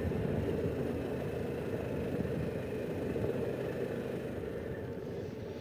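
Harley-Davidson Pan America Special motorcycle's V-twin engine running steadily under way, with wind and road noise, growing gradually a little quieter toward the end.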